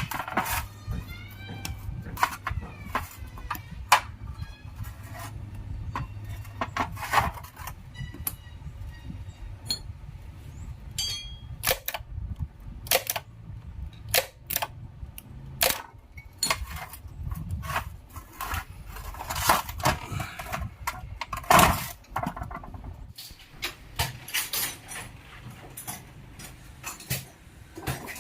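Metal parts and hand tools clinking and knocking on a hard surface: dozens of separate knocks, some ringing briefly like struck metal. A low steady hum runs underneath and stops about five seconds before the end.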